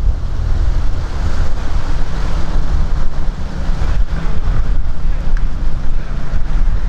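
Wind rumbling on the microphone over the steady running of a canal tour boat's motor.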